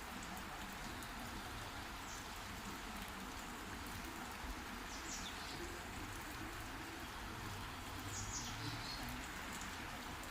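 Steady rain falling, with a bird giving three short, high, falling calls a few seconds apart.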